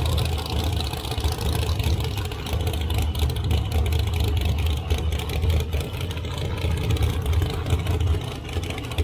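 Drag racing cars' engines idling at the starting line, a steady, uneven low rumble.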